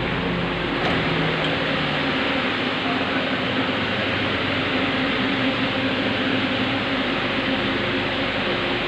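Steady rushing noise of an M2 metro train running through the tunnel, heard from inside the car, with faint motor hums under it.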